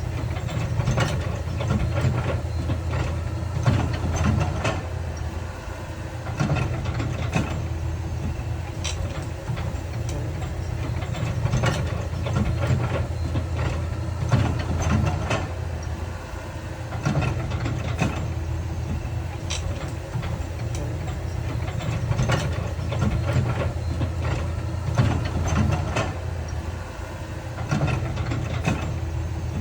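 Heavy diesel earthmoving machinery running steadily, with frequent irregular sharp clanks and knocks over the low engine hum.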